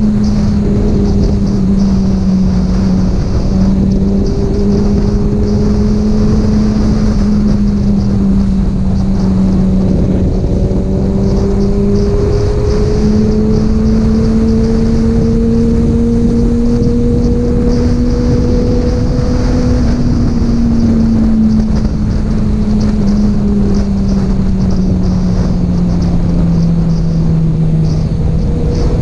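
Kawasaki Ninja ZX-6R inline-four engine with an Akrapovic exhaust, ridden at a steady, fairly high cruising rev. Its note drifts slowly up through the middle and sinks toward the end, over a heavy rush of wind.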